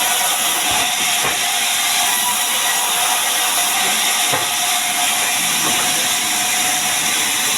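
Heavy rain falling, a steady dense hiss, with a faint steady hum under it and a few light knocks.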